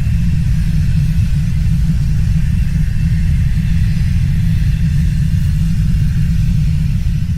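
Loud, steady deep rumble of the Shinmoedake volcano erupting, which cuts off abruptly near the end.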